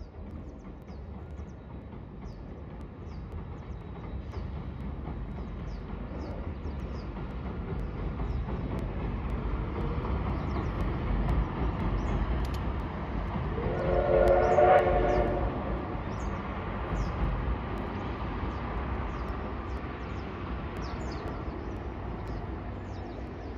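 A steam-hauled train, a C58 steam locomotive pulling 12-series passenger coaches, rumbling steadily across a steel girder bridge, the sound swelling as the coaches cross and then fading. About two-thirds of the way in, a brief pitched tone rises above the rumble, the loudest moment.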